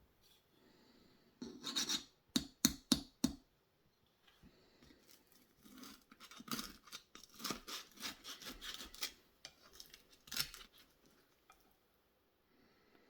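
Kitchen baking preparation: a quick run of about five short scraping, rubbing strokes, then a looser run of similar scrapes a few seconds later.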